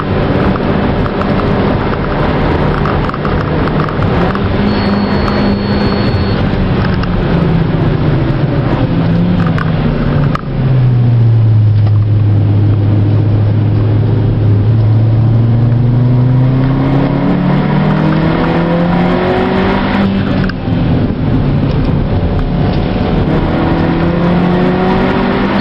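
Mazda Demio's four-cylinder engine heard from inside the cabin while lapping a circuit. The note holds steady, drops to a deeper, louder note about ten seconds in, then climbs as the car accelerates, falls back near twenty seconds in, and climbs again.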